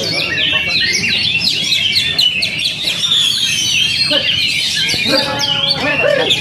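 Several oriental magpie-robins (kacer) singing at once: many overlapping quick whistles, rising and falling glides and chirps, going on without a break.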